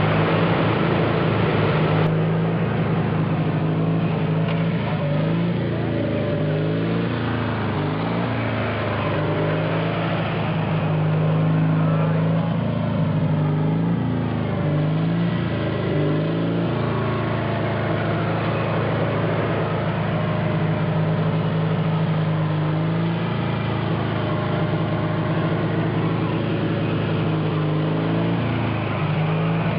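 Small tractor's engine running steadily at full throttle, its pitch dipping and recovering several times.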